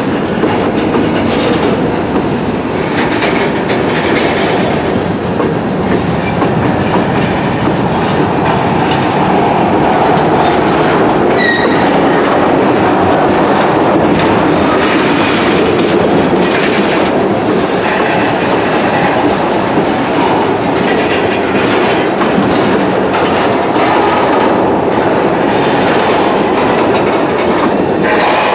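Train cars rolling steadily past, a constant rumble with the clatter of wheels over the rails. A short high wheel squeal comes about eleven seconds in.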